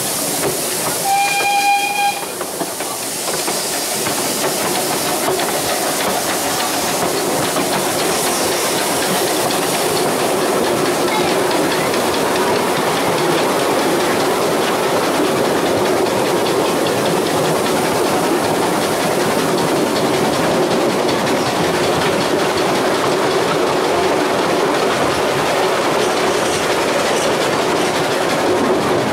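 Narrow-gauge heritage train: the locomotive gives one short whistle about a second in, then the train runs steadily along the track, heard from an open passenger carriage.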